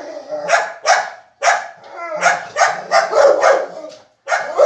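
A dog barking over and over in quick runs, with a brief whine about two seconds in; the barking is the dog's excited reaction to another animal close by.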